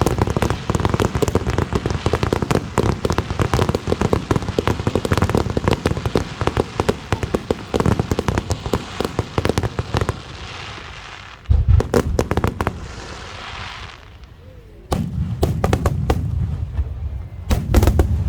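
Large fireworks display: a dense barrage of rapid bursts and crackling reports for about ten seconds, then a fading crackling hiss with one deep boom, a short lull, and more heavy booms near the end.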